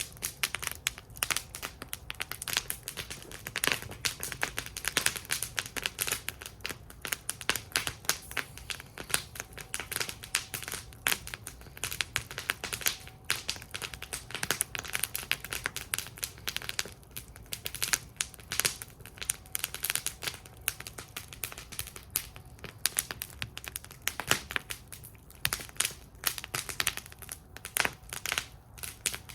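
Wood fire burning in a metal fire bowl, crackling steadily with many small irregular pops and snaps over a low rumble of flame.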